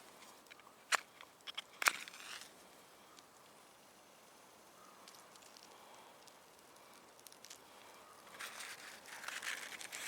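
Dry twigs and kindling being handled for a campfire: a few sharp snaps in the first two seconds, then a longer scratchy rustling near the end.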